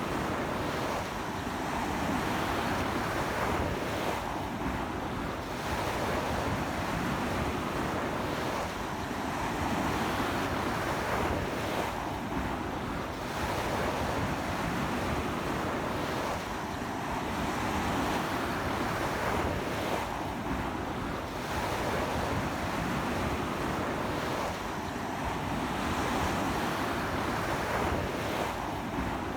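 Sea waves breaking on a beach in a strong onshore wind, a steady wash of surf that swells and eases every few seconds, with wind buffeting the microphone.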